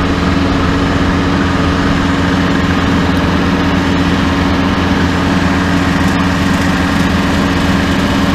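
Tractor engine running steadily at a constant speed while it drives a Woods XT172 rotary cutter (bush hog) through tall grass.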